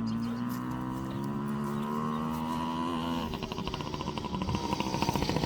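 Yamaha PW50's small two-stroke single-cylinder engine running at a steady pitch. About three seconds in, the note breaks into a fast, choppy pulsing.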